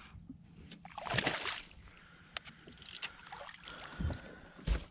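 Water splashing and sloshing beside a kayak, with several sharp knocks and dull thuds against the hull, the loudest near the end, as a fish is being fought and landed.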